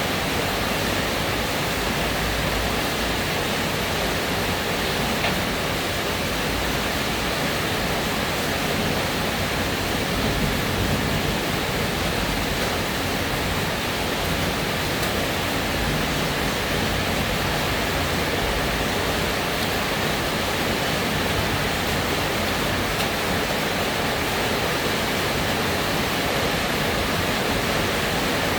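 Steady rainfall, an even hiss of rain with no distinct drops or changes.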